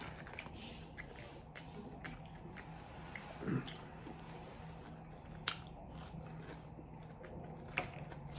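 Faint close-up chewing of battered green bean fries, with a few sharp crunches or mouth clicks and a short low vocal sound about three and a half seconds in.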